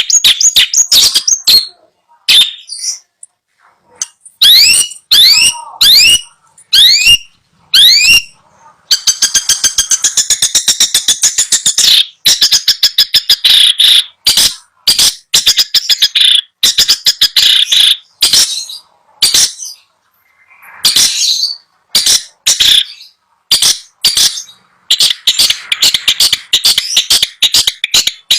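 Caged long-tailed shrike (cendet) singing loudly. First comes a run of sharp, rising whistled notes, then a fast rattling chatter, then scattered harsh short calls.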